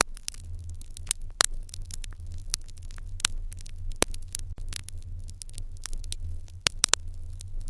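Wood fire in an irori hearth crackling, with sharp, irregular pops and snaps over a steady low rumble.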